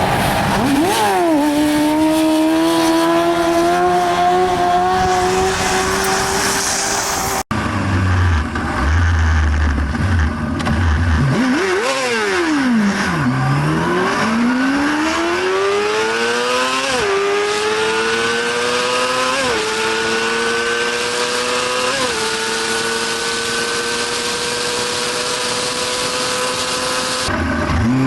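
Honda CBR600RR inline-four engine accelerating hard through the gears: its pitch climbs steadily and drops briefly at each upshift, about three upshifts in a row in the second run. A quick rev up and down comes just before that run.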